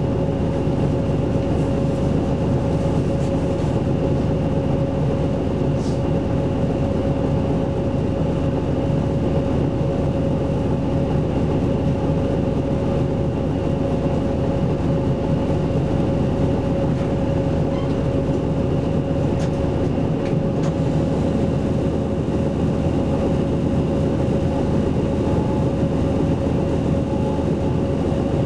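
Isuzu Erga Mio city bus heard from inside the cabin, its diesel engine and drivetrain running at an unchanging note: a low rumble with a steady hum over it that neither rises nor falls.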